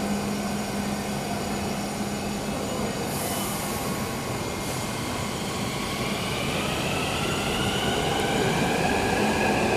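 Hyderabad Metro Rail train running, with a steady rumble of the ride and a brief hiss about three seconds in; from about six seconds in a whine rises in pitch and grows louder as the train picks up speed.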